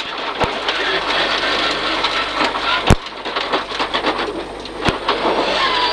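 Inside a rear-wheel-drive Peugeot 306 rally car on a rough, rutted gravel stage: a dense rattle of stones and gravel hitting the underbody over the engine, with a few sharp knocks, about three in all.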